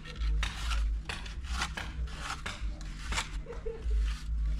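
Irregular scraping and clinking of a metal hand tool, about two strokes a second, over a low rumble.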